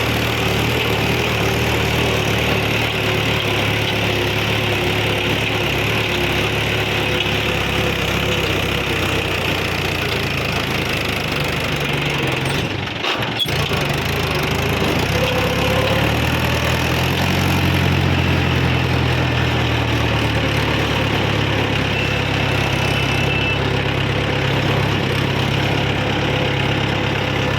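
Mahindra tractor's diesel engine running steadily, with a brief drop-out about thirteen seconds in.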